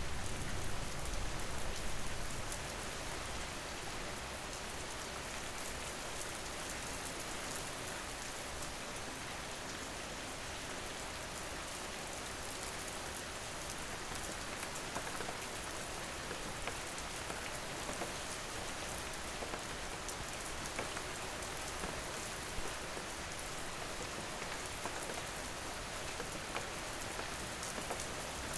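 Steady rain falling, an even hiss with scattered patter of drops, a little louder and deeper for the first couple of seconds.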